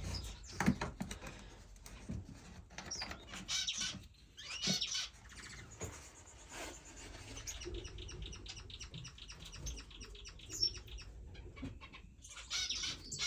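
Many small finches chirping and twittering together, with quick runs of repeated high notes, over scattered sharp clicks.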